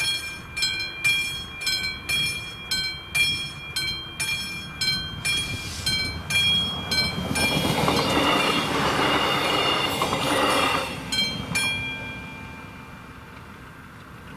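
Level-crossing warning bell striking about twice a second while a passenger train rushes through the crossing for a few seconds, mostly covering the bell. The bell strikes a few more times and stops about 12 seconds in, as the crossing clears.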